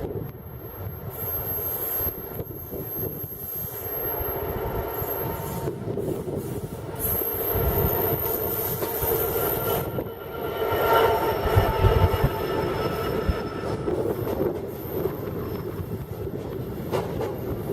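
A train running past with its wheels squealing on the rails over a steady rumble; the squeal is loudest about eleven seconds in. Wind buffets the microphone.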